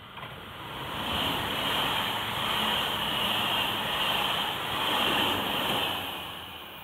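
Tobu 500 series Revaty limited express electric train passing close by: wheels running on the rails with a rush of air, building as it nears, loud for about five seconds, then fading away.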